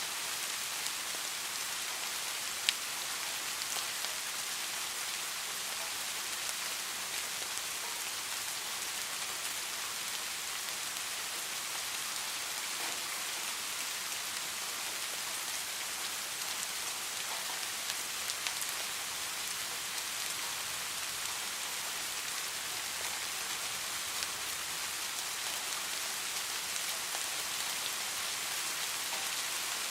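Steady rain falling, an even hiss with individual drops ticking. A single sharper tick stands out about three seconds in.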